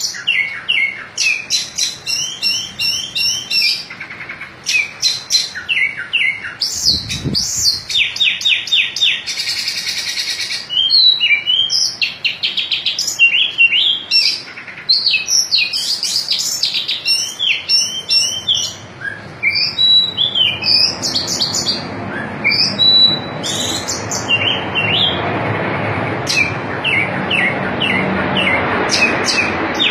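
Oriental magpie-robin of the white-breasted kacer form singing in full display ('ngobra'): a long, unbroken run of varied sharp chirps, whistled slurs and rapid trills. A steady background noise comes up under the song in its last third.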